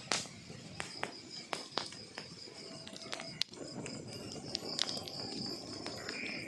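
Wood fire burning in a fireplace, its logs crackling with sharp, irregular pops over a soft hiss of flame. A faint, steady high-pitched tone runs underneath.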